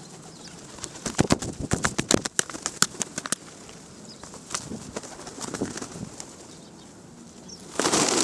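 Pigeons crowding close: a quick run of sharp clicks and wing flaps, then low cooing. Near the end comes a sudden loud rushing noise.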